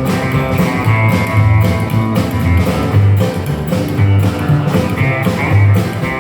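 Rockabilly band playing live, an instrumental passage between sung lines: guitar over a steady beat.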